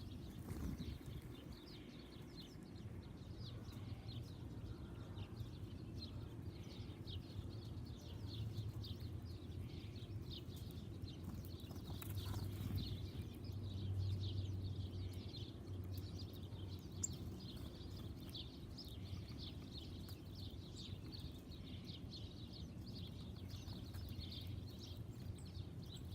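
Backyard songbirds chirping, a steady stream of short, high chirps over a low outdoor rumble.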